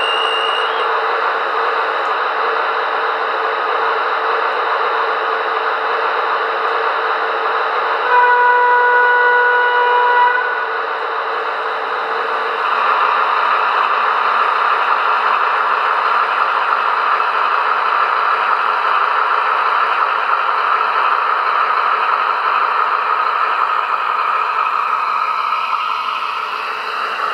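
Digital sound of a Märklin model of the DB VT 11.5 diesel trainset: simulated diesel engines running with a steady drone, through the model's small speakers. A brief high whistle sounds at the very start, the model's horn sounds once for about two seconds about eight seconds in, and the engine sound steps up a little later as if notching up to pull away.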